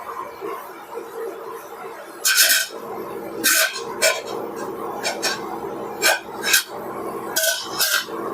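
Kitchen utensils clinking and scraping in about eight short, sharp bursts as spices are added to and handled with raw chicken, over a steady background hum.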